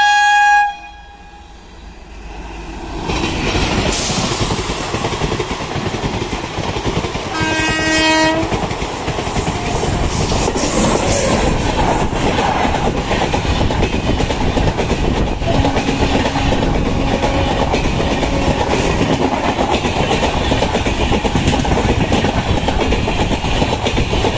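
Train horn sounding in a short blast at the start and again about eight seconds in, as a train approaches and then runs past, its carriages making a loud steady rumble and clatter on the rails.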